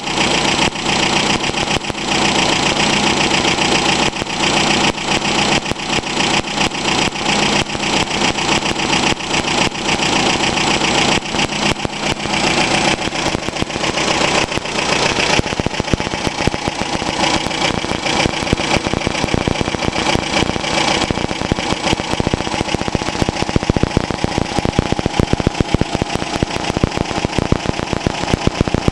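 1960 Metropolitan's 1.5-litre four-cylinder engine running steadily on a test run, a fast even firing beat. About halfway through the sound changes, losing much of its higher hiss.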